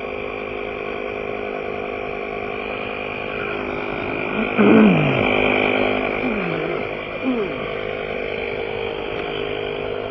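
A motor runs steadily with a fixed-pitch hum. A few short falling sounds come about halfway through, the first the loudest.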